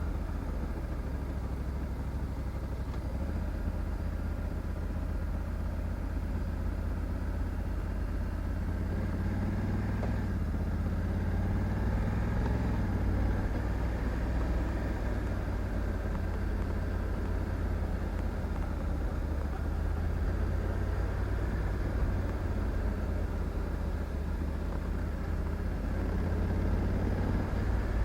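Honda Africa Twin 1100 DCT's parallel-twin engine running steadily while riding, its pitch rising for a few seconds around the middle.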